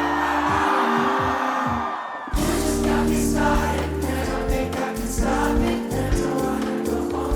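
Live pop music over a festival sound system, with singing over held bass notes. About two seconds in, the music dips briefly, then a steady beat with heavy low hits comes in.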